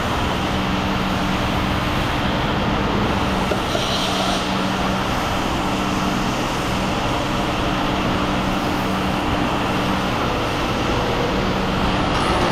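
Steady drone of running machinery: an even, noisy rumble with a low steady hum under it.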